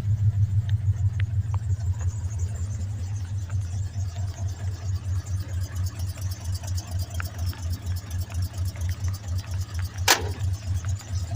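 1982 Ford F100's carbureted 3.8 V6 idling cold just after a cold start, a steady pulsing low engine note. A single sharp click sounds about ten seconds in.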